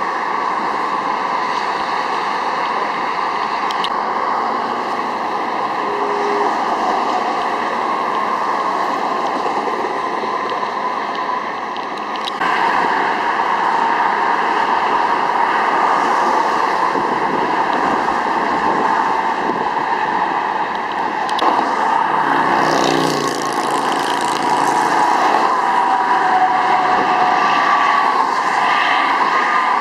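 Steady highway traffic noise from vehicles passing on the interstate, with a vehicle's engine passing close by about three-quarters of the way in.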